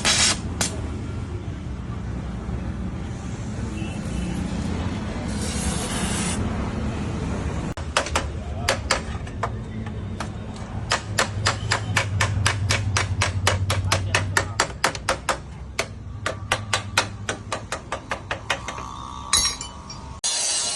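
Light hammer taps on a motorcycle's steel mudguard patch, several a second for about ten seconds, with a short pause in the middle. A low steady hum runs underneath, and a brief hiss comes before the tapping starts.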